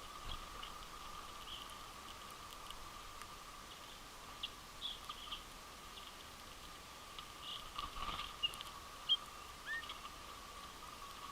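Scattered short chirping calls of winter finches, a few at a time and more often in the second half, over a faint steady hum and hiss.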